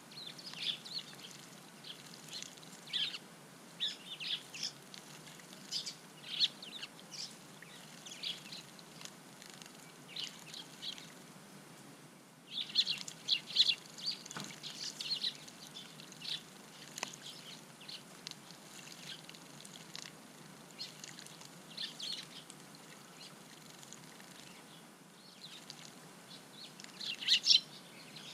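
Eurasian tree sparrows chirping, many short calls coming in scattered runs, busiest about 13 seconds in and again near the end.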